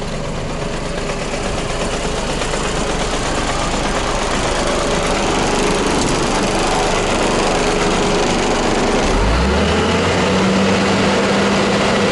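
Scania 124 420 truck's straight-six diesel running, growing slowly louder, with the engine note rising in pitch about nine seconds in as it is revved or pulls away.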